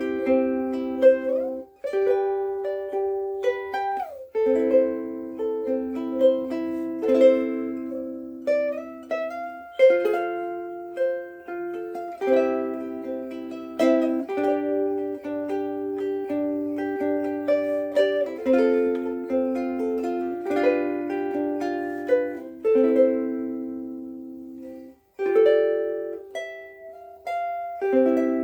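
Pono curly mango soprano ukulele strung with Aquila Reds strings, played as a chord-melody piece: strummed chords with plucked melody notes that ring on with long sustain.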